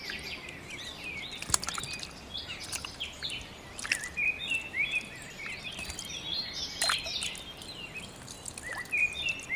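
Small birds chirping over and over in quick, short high-pitched chirps, with a few sharp clicks in between.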